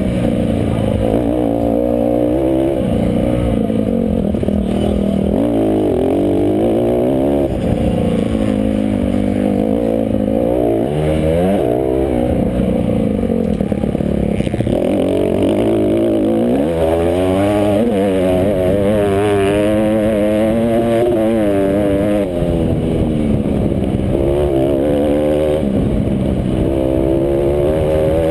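Motocross bikes racing: several off-road motorcycle engines rev up and down through the throttle and gear changes and overlap one another. Around the middle, one engine's pitch wavers quickly up and down.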